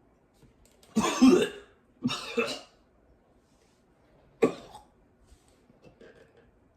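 A man coughing three times, two long harsh coughs and then a short sharp one, a reaction to having just eaten a wet-dog-food-flavoured BeanBoozled jelly bean.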